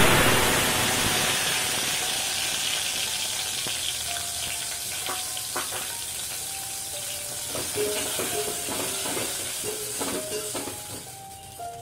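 Chopped tomatoes hitting hot oil and mustard seeds in a steel pot: a loud burst of sizzling that slowly dies down. In the second half a spoon stirs and knocks against the pot a few times.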